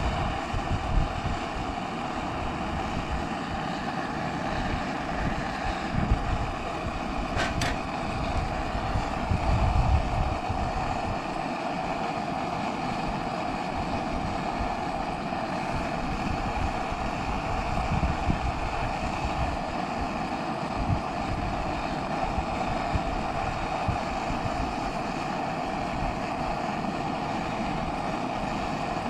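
Wind buffeting the microphone in irregular gusts over a steady rushing hiss, with one sharp click about seven and a half seconds in.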